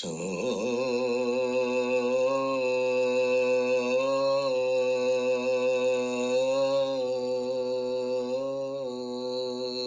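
A single voice chanting one long, steady note, starting suddenly and held at nearly the same low pitch throughout.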